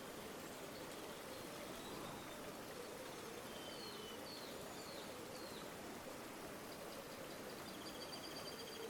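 River water flowing steadily. A small bird gives a few short chirps about halfway through and a quick repeated trill near the end.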